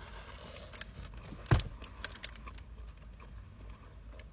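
Crisp crackling and crunching of a banh mi being bitten and chewed, many small sharp clicks, with one louder thump about one and a half seconds in.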